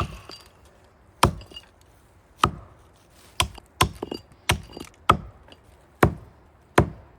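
An axe chopping into a maple trunk: about nine sharp blows, roughly one a second and coming faster in the middle.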